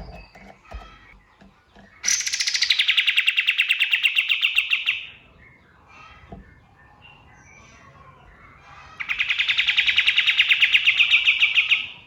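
A kapas tembak songbird gives two long, fast rattling trills of about three seconds each, one about two seconds in and one about nine seconds in, with faint chirps of other birds between them.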